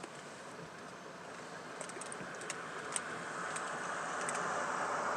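A car driving past, heard from inside a parked car: a rush of road noise that swells steadily louder toward the end. A few light clicks and ticks sound over it, as of something small being handled in the car.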